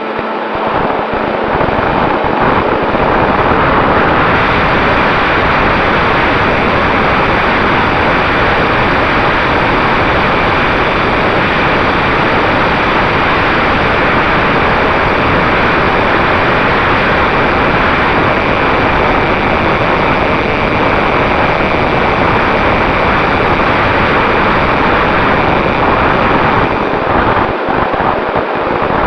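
Loud, steady rush of wind noise with a faint steady hum under it from the Mini Talon RC plane's electric motor and propeller.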